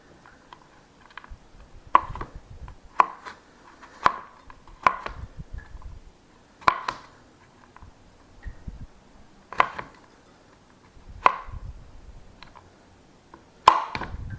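Knife chopping mini Reese's peanut butter cups: about eight single, sharp cuts spaced a second or two apart, one of the strongest near the end.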